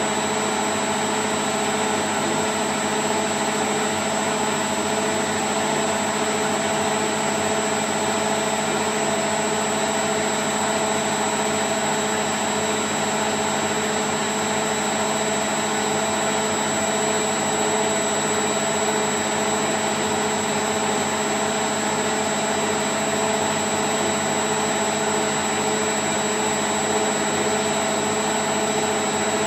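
Candy Grand O' F106 washing machine spinning at 1000 rpm: a steady, unchanging whir of drum and motor with a constant hum and a thin high whine.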